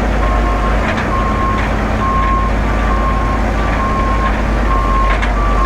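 Truck backup alarm beeping steadily, about two beeps a second, over the low, steady running of a concrete mixer truck's diesel engine.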